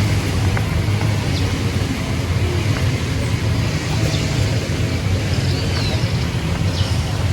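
Steady running noise of a car on the road: a low engine-and-tyre hum.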